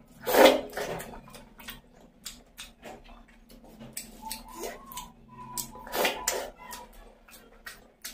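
Close-miked eating sounds of a person eating rice and mutton curry by hand: wet chewing and lip-smacking, with a loud bite about half a second in and another burst about six seconds in, between many small clicks.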